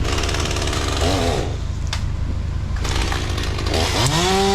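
Chainsaw running in spurts, its pitch rising sharply about four seconds in as it revs and then holding at full throttle, over a steady low engine hum.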